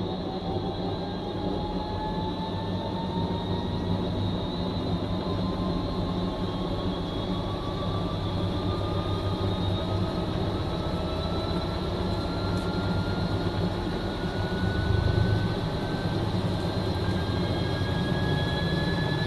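Fisher & Paykel MW059 top-loading washing machine spinning up, its motor whine rising slowly and steadily in pitch over a steady low hum, typical of the drum gathering speed in the final spin.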